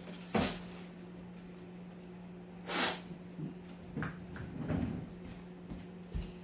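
A few scattered knocks and bumps of things being handled in a kitchen, the loudest about three seconds in, over a steady low hum.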